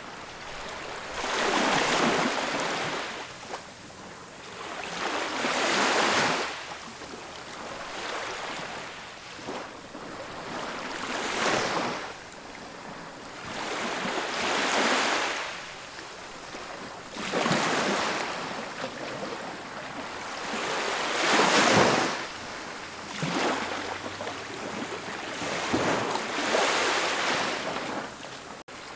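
Ocean waves breaking on a beach, surf washing in in repeated surges every three to four seconds, one of the loudest about three quarters of the way through.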